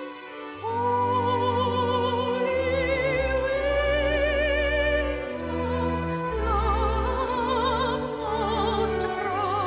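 Operatic soprano singing long sustained notes with a wide vibrato over orchestral accompaniment with low strings. The voice comes in about half a second in.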